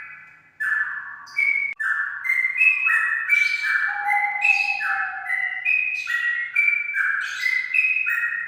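Straw-headed bulbul (cucak rawa) singing: a continuous run of clear, rich whistled notes, stepping up and down in pitch, after a brief pause about half a second in.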